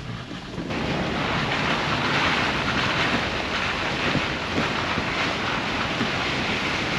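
A steady, loud rushing noise of wind buffeting the microphone, starting suddenly about a second in.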